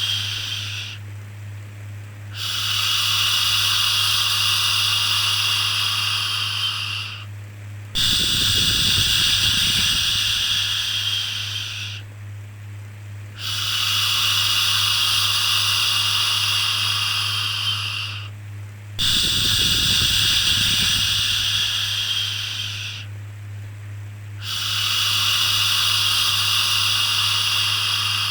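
Soothing 'shhh' shushing for a baby, repeated in long strokes of about four to five seconds each with a brief pause between them, over a steady low hum.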